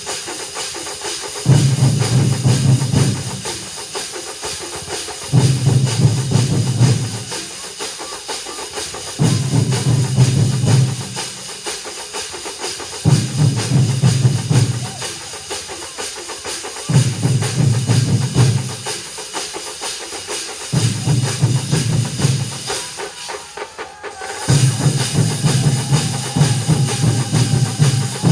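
A large drum ensemble playing in unison: heavy low drum strokes come in spells of about two seconds, returning roughly every four seconds, with lighter playing in between. The playing drops back briefly about three-quarters of the way through, then comes in again.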